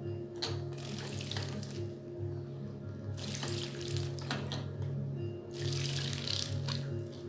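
Pet birds splashing in bathwater in three bursts of about a second each, over background music with a steady beat.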